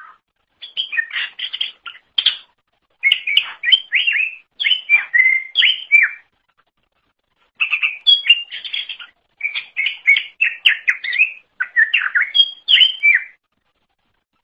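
Cucak ijo (green leafbird) singing. Its song comes in three phrases of fast, varied chirps and whistled notes, with short pauses between them.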